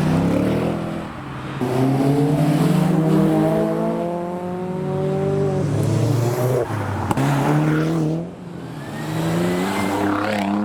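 A modified car's engine accelerating hard past, the revs climbing again and again with short dips between, as at gear changes. There is a single sharp crack about seven seconds in.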